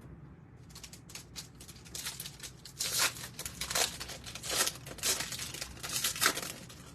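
A foil trading-card pack, 2022 Bowman Platinum, being torn open and its wrapper crinkled: a run of short ripping and rustling strokes that grow louder about three seconds in.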